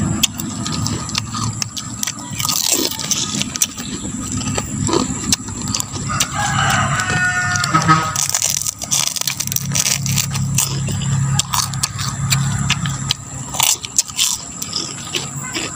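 Close crunching and chewing of crispy beef chicharon, with many sharp crackles as pieces are bitten. A rooster crows once in the background about six seconds in.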